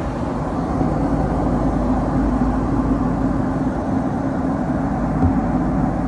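Steady cabin noise of a Boeing 767-300ER airliner on descent: an even, low rush of engines and airflow with a faint steady hum, unchanging in level.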